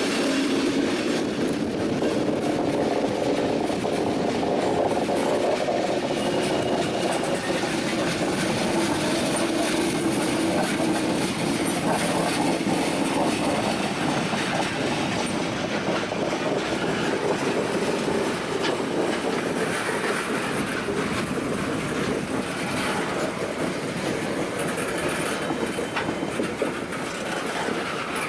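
A train's cars rolling past at steady speed: a continuous rumble of steel wheels on rail with fine clicking over the joints.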